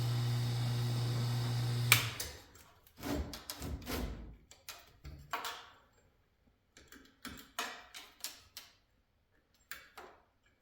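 Electric wire-stripping machine's motor humming steadily, then switched off with a sharp click about two seconds in. A scatter of short knocks and rattles follows as the wire and machine are handled.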